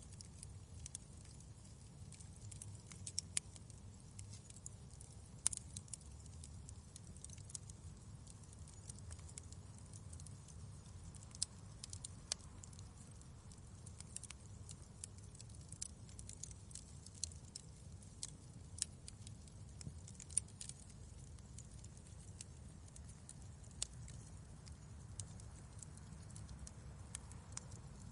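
Wood fire crackling in a fireplace: irregular sharp pops and snaps over a low steady rumble of burning.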